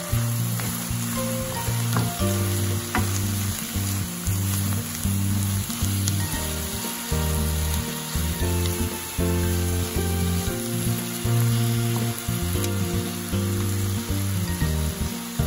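Garlic scapes sizzling as they stir-fry in a pan, tossed and stirred with a wooden spatula, with a few sharp clicks of the spatula near the start. Background music with low sustained notes plays over it.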